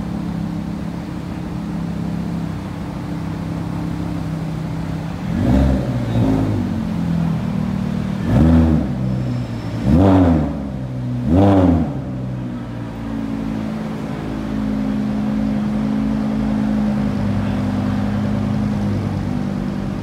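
A car engine idling, then blipped five times in quick revs between about five and twelve seconds in, each rev rising and falling in pitch, before settling back to a steady idle.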